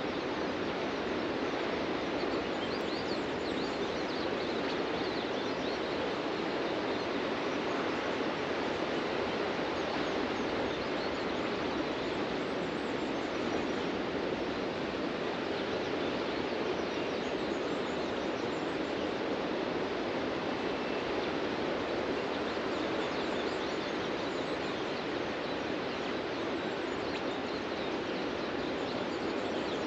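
Steady wash of ocean surf breaking on a beach, an even rushing noise with no single crash standing out, with faint birds chirping now and then.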